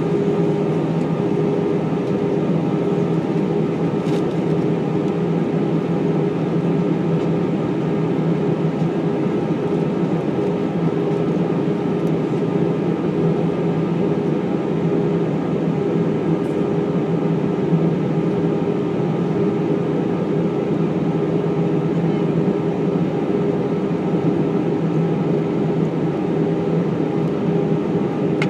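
Airbus A319 cabin noise in flight: the steady drone of the jet engines and rushing airflow, with a constant hum of a few fixed tones, heard from inside the cabin.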